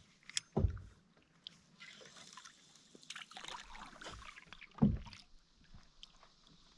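Canoe being paddled: water swishing and splashing with the paddle strokes, and two dull knocks on the hull, the louder one about five seconds in.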